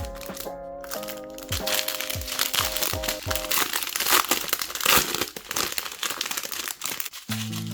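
Plastic packaging crinkling and crackling as it is handled and torn open, loudest about four to five seconds in, over background music with a steady beat.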